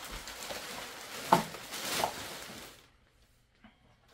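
Plastic packing material and bubble wrap rustling as it is handled and stuffed into a bag, with one sharp knock about a second in; the rustling stops about three seconds in.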